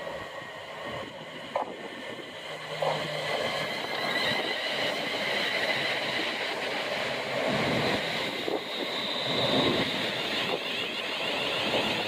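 A train running past, a steady rush of wheel and rail noise with a few light knocks.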